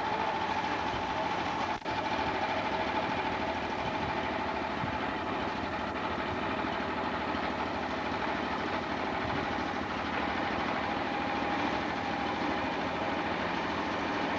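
Sawmill running steadily: a constant machine drone with a steady tone over it, broken by a momentary drop-out about two seconds in.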